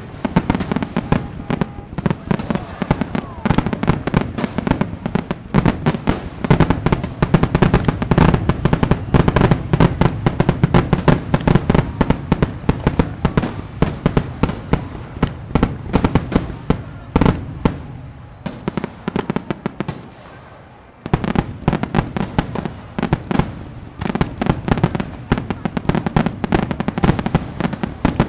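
Fireworks going off in a dense, rapid string of cracks and bangs. They die down to a lull between about 18 and 21 seconds in, then start again abruptly.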